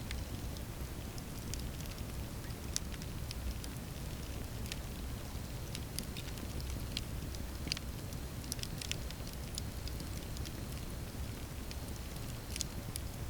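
Campfire burning steadily with a low rumble of flames and irregular sharp crackles and pops, a couple of them louder.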